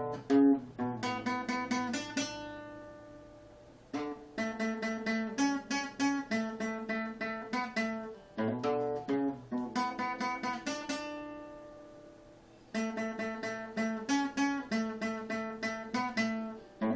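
Acoustic guitar playing an instrumental intro: quick picked notes in phrases, twice stopping on a chord that is left ringing and fades out before the picking resumes.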